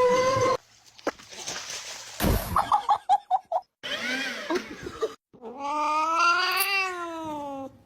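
Cats meowing and yowling in a series of abruptly cut clips, with a thump about two seconds in followed by a short burst of laughter. The last call is long, rising then falling in pitch.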